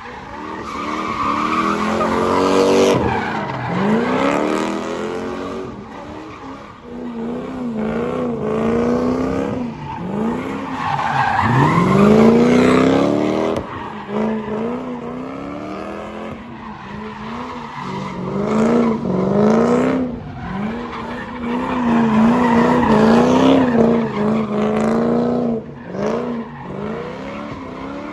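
Lexus GS400's 4.0-litre V8 revving up again and again while the rear tyres squeal and skid through slides, the welded differential locking both rear wheels together.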